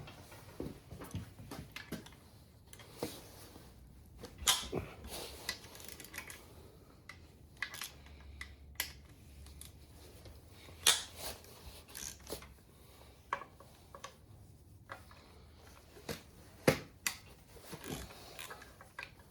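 Hand tools and loose metal engine parts clinking and knocking now and then during an engine teardown, with a few sharper knocks standing out.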